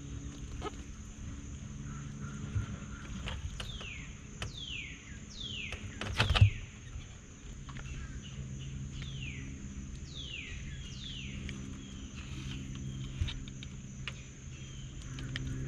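A bird calling again and again with short, falling whistled notes, about a dozen of them, over a low steady hum. A single sharp knock comes about six seconds in.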